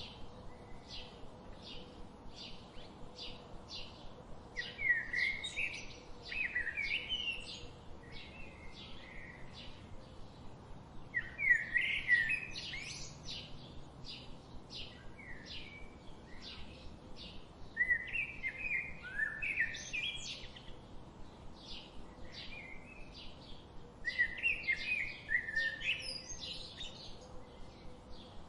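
Wild songbirds singing: a steady run of short, high chirps about two a second, broken about every six seconds by a louder, quick warbling phrase.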